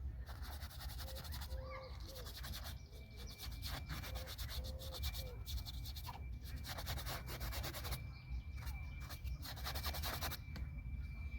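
Paintbrush scrubbing paint onto the painting surface in several spells of quick back-and-forth strokes, with short pauses between them. A low wind rumble runs underneath.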